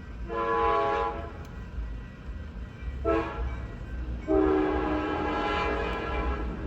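Locomotive air horn sounding three blasts: a short first blast, a brief toot about three seconds in, then a longer blast of about two seconds, over a steady low rumble.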